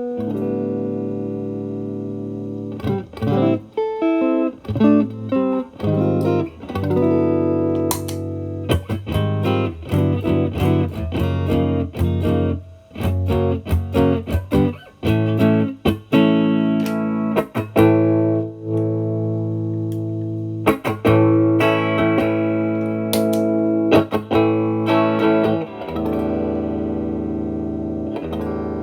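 Electric guitar playing a Fender Stratocaster through an Xotic BB Plus preamp's channel B, set as the main drive with its gain at zero, into a Marshall Valvestate amp. Single notes and chords are picked, with some chords held and ringing out.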